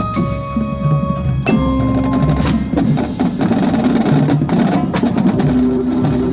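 Percussion ensemble playing, with rapid mallet strikes on marimba over ringing bell-like tones. A low sustained note enters in the second half.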